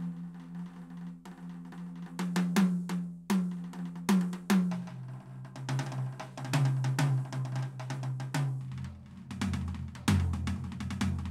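Roland TD-17KVX electronic drum kit played through its sound module: a busy pattern of kick, snare, hi-hat and cymbal hits. Under the hits a low held note steps down in pitch about 5 seconds in and again about 9 seconds in.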